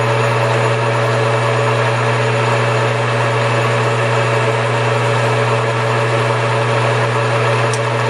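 Small metal lathe's electric motor and drive running steadily at speed, a constant hum with no cutting noise.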